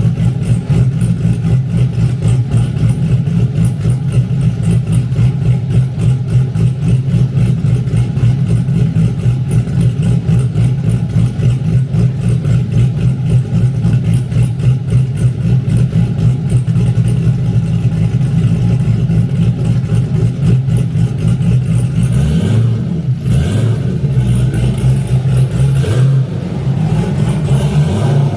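Big-turbo, cammed LS V8 running on E85, idling with a choppy, uneven pulse. Near the end the engine speed briefly rises and falls a couple of times.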